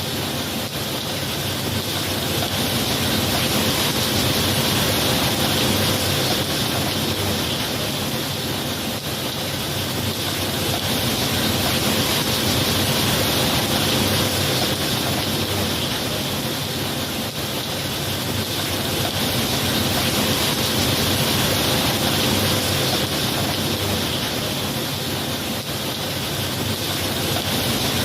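Steady rain, a continuous hiss that swells and eases slowly every several seconds, with no thunderclap.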